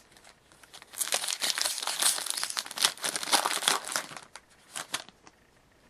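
Foil trading card pack wrapper crinkling and being torn open for about three seconds, followed by a few light clicks and rustles as the cards are handled.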